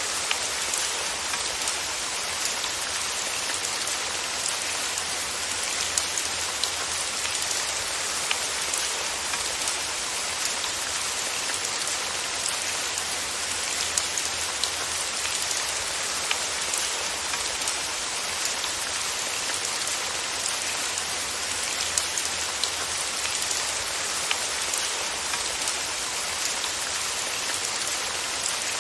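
Steady rain falling: an even, bright hiss with scattered sharper ticks of individual drops.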